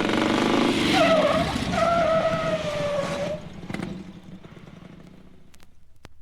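Car tyres squealing in a skid: a noisy rush with a squealing tone that slides slightly down, from about one to three and a half seconds in, then dies away. A few vinyl record pops near the end.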